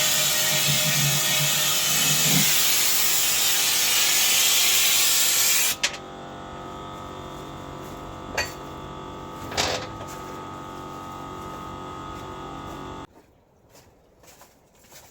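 Pressure washer spraying, a loud steady hiss as the jet flushes rust out of an old fuel tank. The spray stops suddenly about six seconds in, leaving the washer's motor humming steadily with two short knocks, until the motor cuts off a couple of seconds before the end.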